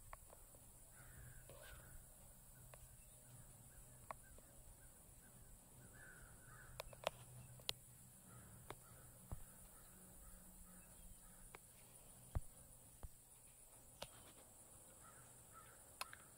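Near silence, with faint harsh bird calls in short runs every few seconds and a few sharp clicks. A faint low hum runs underneath.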